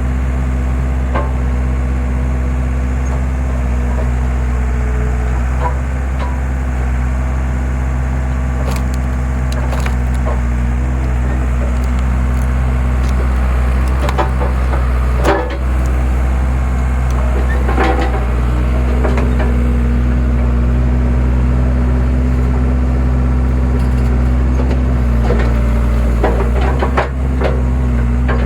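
Skid steer engine running steadily while its hydraulic splitter splits firewood: repeated cracks and splintering as logs break apart. The sharpest cracks come about halfway through and near the end, and the engine note shifts slightly a few times under load.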